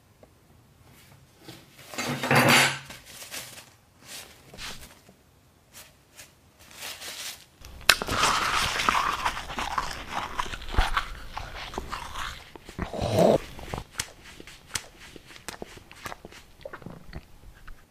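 Close-miked chewing and crunching of food, with wet mouth sounds and clicks. Two loud, short, throaty growl-like vocal sounds stand out, one a couple of seconds in and one past the middle.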